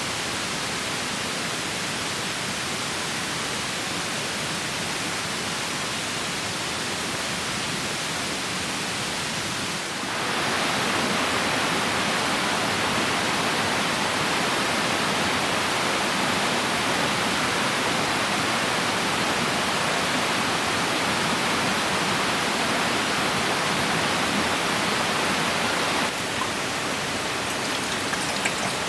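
Steady rushing water of a clear mountain stream, with no pitch or rhythm. About a third of the way in it abruptly becomes louder and brighter. Near the end it drops back, with a few small ticks.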